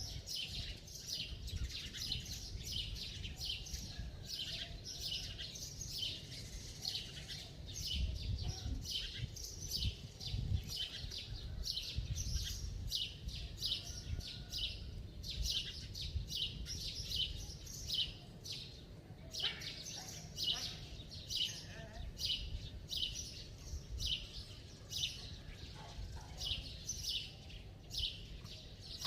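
Small birds chirping, a steady run of short high chirps about two a second, over a low rumble.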